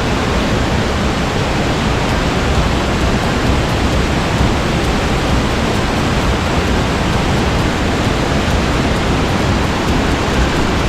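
A large waterfall crashing close by, a loud, steady rush of falling water. The speaker calls it "raging, wild".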